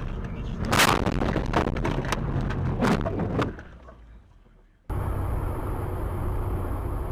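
Car collision heard from inside the car: a loud crash about a second in, then several more knocks and clatter over the next two seconds, after which the sound fades away. Steady car engine and road noise starts abruptly near the end.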